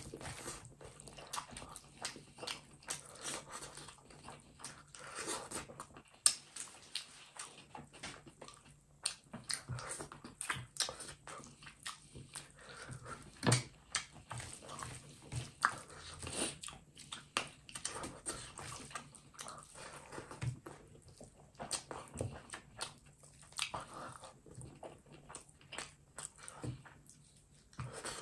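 Close-miked chewing and wet lip-smacking of a mouthful of rice and duck curry, with irregular sticky clicks several times a second, and the squish of rice and gravy being mixed by hand.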